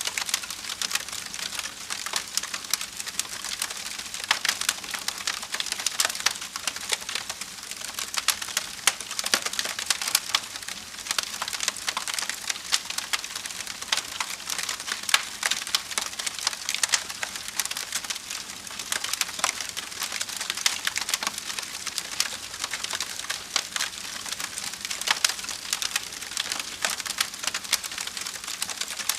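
Wood fire burning in a fireplace, crackling and popping steadily with frequent sharp snaps over a soft hiss.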